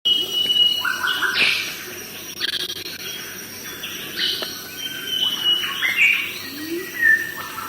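Several birds calling at once in forest, a mix of chirps and short held whistles overlapping one another.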